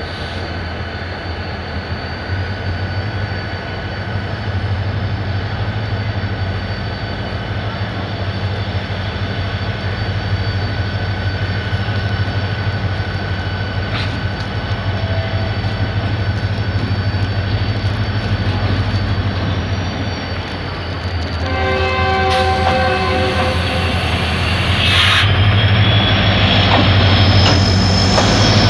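HGMU-30 diesel-electric locomotive's engine running with a steady low drone. About 21 seconds in, its horn sounds for about three seconds. Near the end the engine grows louder as the train departs.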